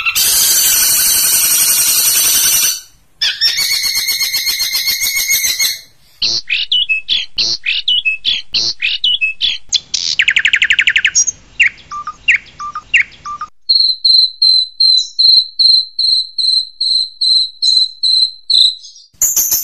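Long-tailed shrike (cendet) song in edited segments: harsh buzzy chattering with a brief break, then a run of sharp descending calls and a rapid trill, then a steady series of short high whistled notes at about two a second. The chatter returns abruptly near the end.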